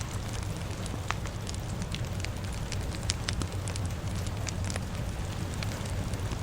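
A fire crackling, with frequent sharp irregular pops over a steady low rumble, and a constant rain hiss beneath.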